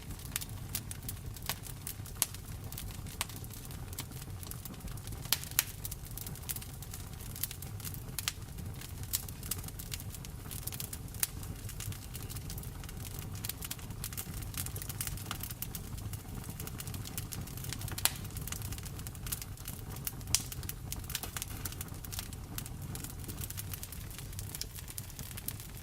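Wood fire in a fireplace crackling, with frequent sharp pops and snaps, over a steady low rumble and the patter of falling rain.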